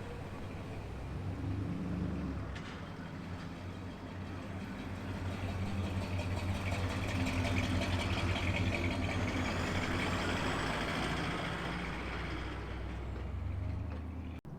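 Muscle car engine exhaust as a car drives by slowly. The low engine note swells to its loudest about halfway through, eases off, and cuts off abruptly near the end.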